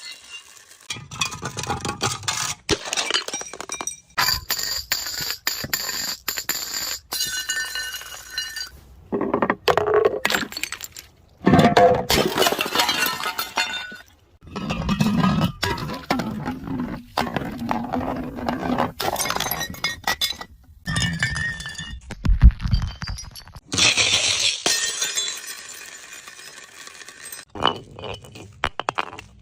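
Glass bottles and jars breaking and clinking over and over in short, abruptly cut clips, with shards ringing and tinkling after the impacts. A heavy low thud stands out about 22 seconds in.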